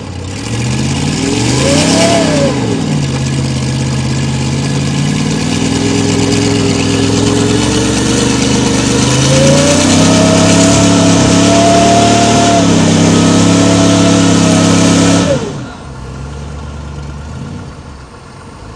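Mercedes-Benz G500's V8 engine working under load while pulling a truck: a brief rev up and down, then revs climbing steadily over several seconds and held high. Near the end the revs drop sharply back to idle.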